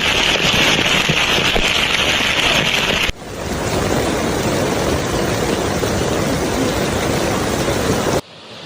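Heavy rain and rushing floodwater, loud and steady. The sound changes abruptly about three seconds in and drops quieter near the end.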